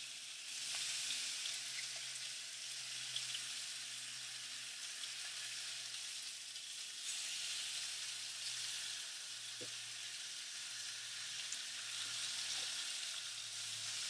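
Bacon strips frying in a skillet: a steady sizzling hiss with small scattered pops.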